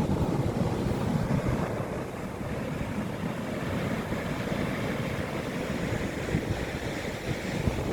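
Wind buffeting the microphone in gusts, over a steady rush of ocean surf.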